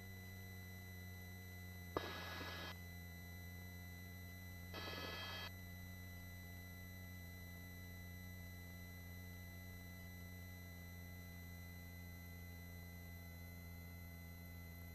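Helicopter cabin sound as picked up through the headset intercom: a faint, steady low hum of fixed tones, broken twice by a short burst of hiss about two and five seconds in, as an intercom microphone opens briefly.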